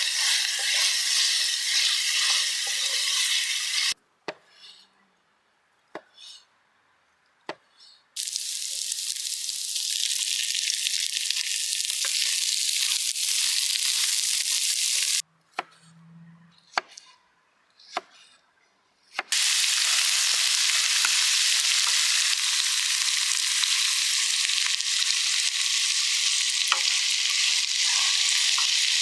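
Food sizzling as it fries in a pan, a steady hiss. It cuts out abruptly twice for about four seconds each time, leaving only a few sharp clicks, then comes back just as suddenly.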